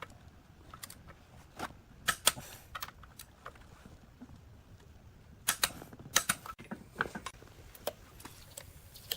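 Irregular sharp clicks and light knocks of hand work on machine parts, with a cluster of louder taps about five and a half seconds in.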